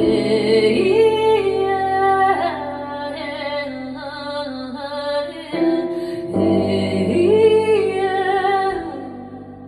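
A woman singing long wordless phrases, two of them with a short break between, over steady held chords; the music fades near the end.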